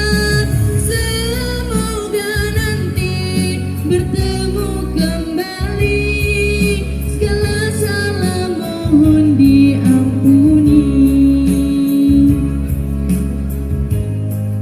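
A song: a singing voice carrying a melody over guitar accompaniment, holding one long note about two-thirds of the way through.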